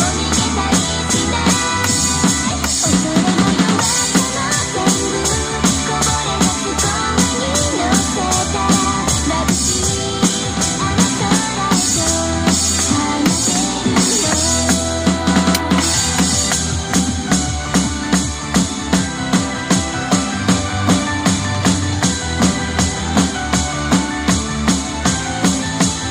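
Drum kit played along with a recorded pop song. A steady beat of bass drum and snare runs under a constant wash of cymbals, and the hits come harder and more evenly, about twice a second, in the last third.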